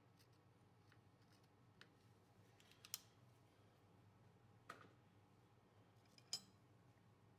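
Near silence with four short, sharp clicks or taps spread across a few seconds, the loudest about three seconds in and again near the end.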